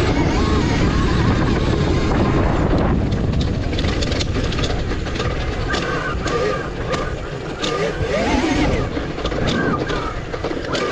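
A Revolt electric dirt bike being ridden, its motor whine rising and falling with the throttle over a steady low rumble. Scattered clicks and rattles come in from about four seconds in.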